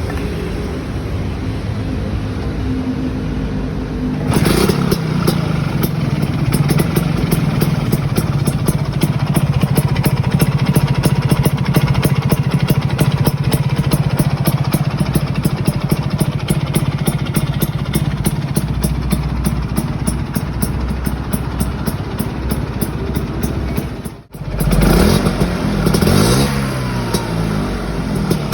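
Vespa PX two-stroke single-cylinder engine running through a PRP Big Silencer aftermarket exhaust. It runs steadily at a lower speed, steps up to a faster, louder steady run about four seconds in, and near the end cuts out for an instant before being revved up and down.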